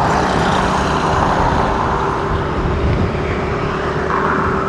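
A car driving: steady road and engine noise with a low rumble and a constant hum.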